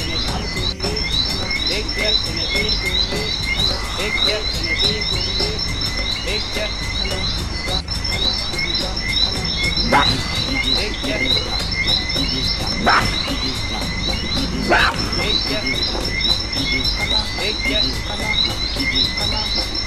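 Nature soundscape: a steady chorus of crickets and other insects, with continual bird chirping over a low rumble. Three sharp clicks come in the second half.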